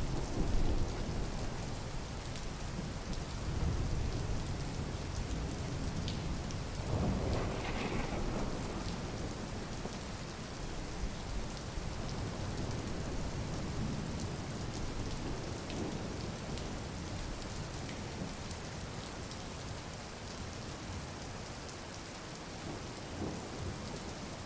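Steady rain falling, an even hiss. It runs under a low rumble that is strongest at the start and slowly dies away, with one brief louder swell about seven seconds in.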